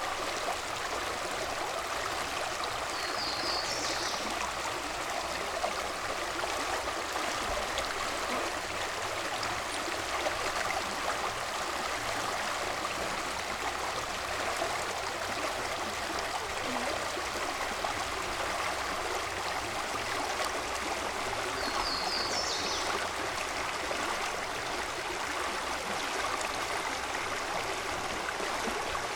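Steady rushing of flowing creek water, with two brief clusters of high chirps, one a few seconds in and one about three-quarters of the way through.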